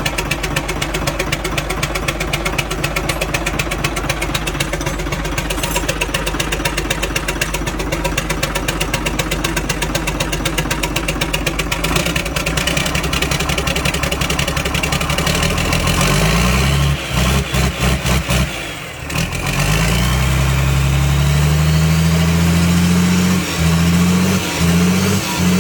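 Used diesel engine running on a test: a steady rapid knocking idle for about the first half, then revved several times, its pitch rising with each rev.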